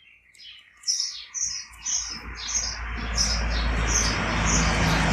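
A small bird chirping over and over in short high notes, about two a second. From about two seconds in, a rushing noise with a low hum builds up under the chirps and becomes the loudest sound.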